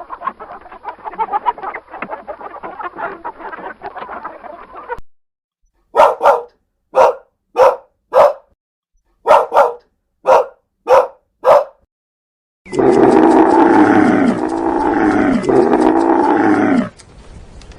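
Dog barking: about ten short, sharp barks in a row. Before them comes a busy, noisy stretch of animal sound, and after them a long, loud pitched animal call that rises and falls in repeated waves.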